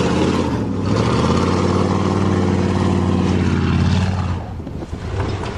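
1988 Chevrolet pickup truck's engine running at steady, high revs, easing off about four seconds in.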